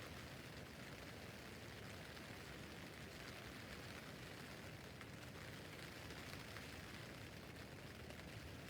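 Steady, fairly faint rain pattering on a tent roof, an even hiss of many small drops.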